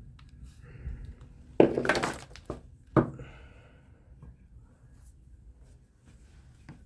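Fan motor parts being handled on a workbench: a short clattering rattle about a second and a half in, then a single sharp knock, with a few faint clicks.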